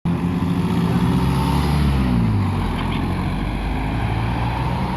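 Car engine running, its pitch shifting down and up around the middle as the revs change.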